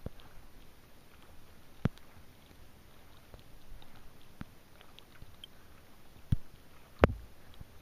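Scattered raindrops ticking on a fibreglass sea kayak's wet deck, over a faint quiet hiss of calm water, with a few sharper knocks, the loudest about seven seconds in.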